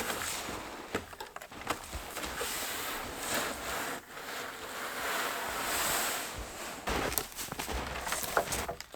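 Footsteps crunching through snow, with wind gusting on the microphone and swelling in the middle.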